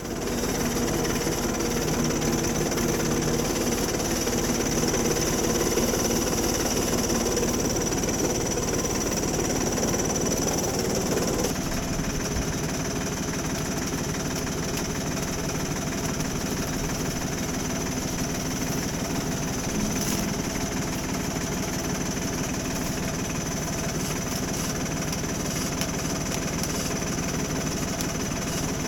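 Farm machinery engine running steadily, with a thin high whine over the drone. The sound changes abruptly about eleven seconds in, then runs on steadily.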